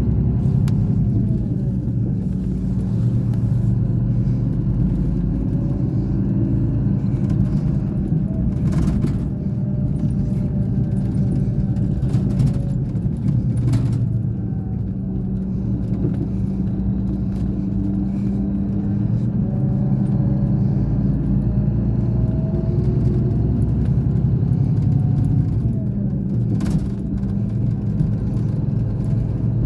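Scania K420 bus engine running steadily with a low drone, its pitch drifting gently up and down a few times. There are a few sharp knocks at about 9 seconds, between 12 and 14 seconds, and near the end.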